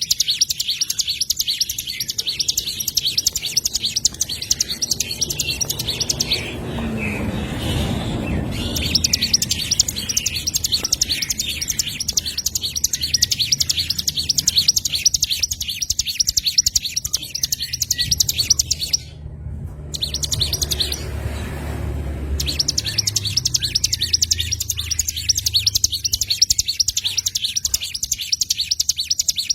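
Small songbirds chirping in a rapid, continuous high twitter, as in a songbird training (masteran) recording. The chirping drops out briefly about a quarter of the way in and again past the middle, leaving a low rumble.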